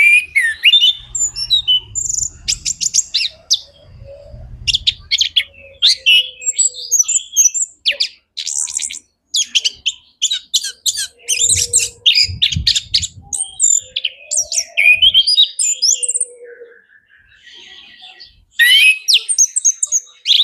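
Male chestnut-capped thrush (anis kembang) singing a long, rich song of rapid chirps, trills and sweeping whistled notes, with brief pauses between phrases.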